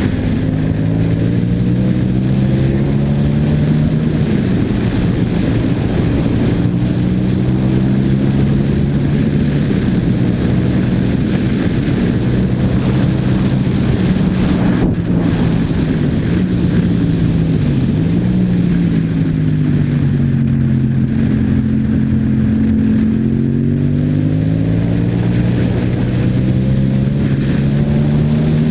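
Yamaha MT-07's parallel-twin engine through an Akrapovic exhaust, ridden through the gears with wind rushing over the microphone. The engine note rises over the first few seconds, holds steady, dips briefly, falls, and then climbs again near the end.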